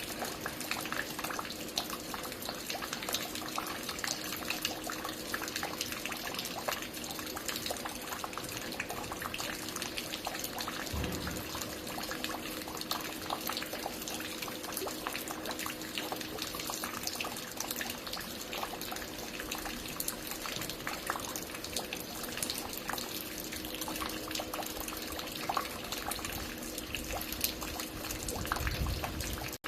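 Water falling and dripping at a construction site: a steady patter of many small splashes with a faint hum underneath, and a low rumble about eleven seconds in and again near the end.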